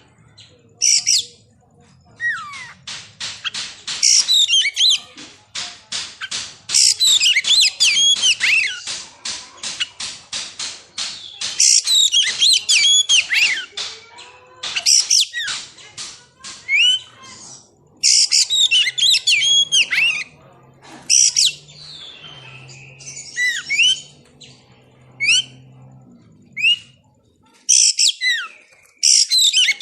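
Oriental magpie-robin (kacer) singing loud, varied phrases of quick gliding whistles and rapid chattering runs of notes, in bursts with short pauses between them.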